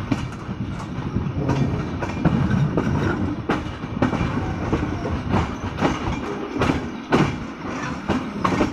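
Silkcity Express passenger train running along the track: a steady rumble of wheels on rails, with irregular clacks and knocks as the wheels pass over rail joints.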